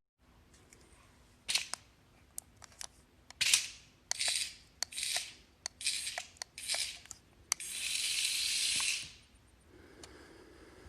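Scattered sharp clicks and a run of short hissy noises, ending in a longer hiss of about a second and a half.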